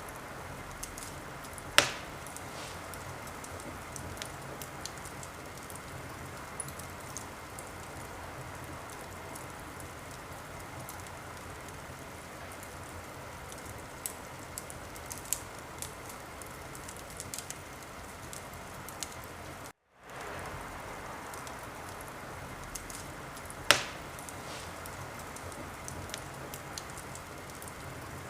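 Wood fire burning in a fireplace: a steady hiss with scattered small crackles and two sharp pops, one about two seconds in and one near the end. The sound cuts out briefly about twenty seconds in, then fades back.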